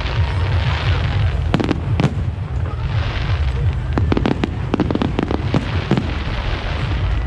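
Fireworks display: a rapid, irregular series of sharp bangs from bursting shells, with patches of hissing crackle, over a constant deep rumble.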